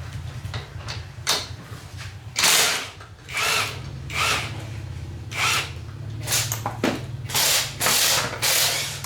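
Workshop tool noise: a series of short noisy bursts, roughly one a second, over a steady low hum.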